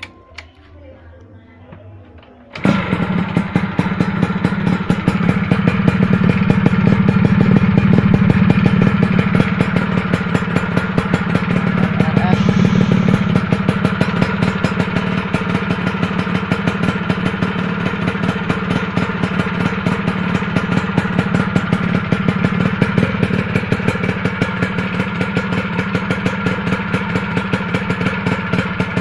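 Two-stroke motorcycle engine running through its exhaust, coming in suddenly about two and a half seconds in and then running steadily with a rapid, even pulse, swelling a little a few seconds later.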